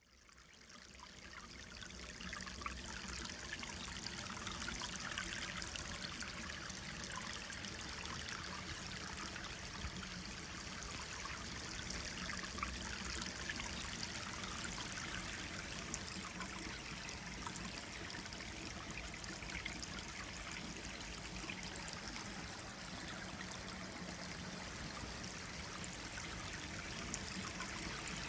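Gentle stream flowing over stones, a steady trickling rush of water with many small splashes. It fades in over the first couple of seconds, then holds even.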